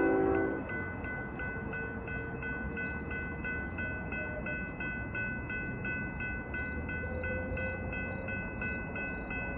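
A diesel freight locomotive's air horn cuts off about half a second in. After it, a grade-crossing bell rings steadily at about three strikes a second over the low rumble of the approaching train.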